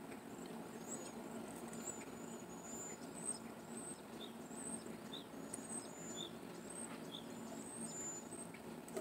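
Small birds chirping in the background: short high chirps repeating throughout, with a lower note about once a second midway, over a steady low hum.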